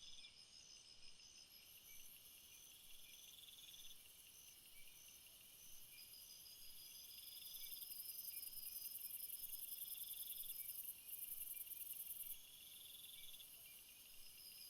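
Faint chorus of insects chirping and trilling: a high steady buzz that swells about halfway through and cuts off suddenly near the end, a short chirp repeating about twice a second, and lower trills in phrases of a second or two.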